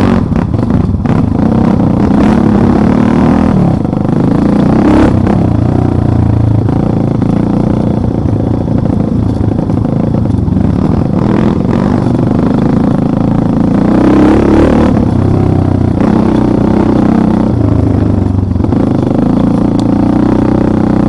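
Motorcycle engine running under load, its revs rising and falling as it rides over rough ground, with some rattling and clattering.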